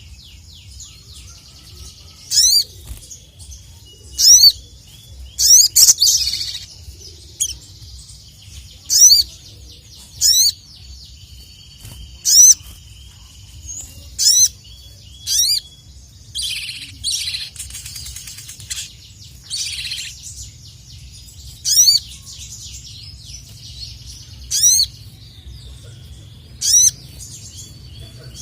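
Sogon (sogok ontong, the little spiderhunter) calling loudly and persistently: sharp, high, quick call notes repeated every second or two, with a stretch of rapid chattering in the middle. A steady low hum runs underneath.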